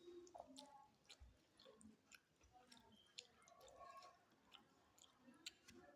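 Faint close-up chewing of food, with soft wet mouth clicks scattered throughout.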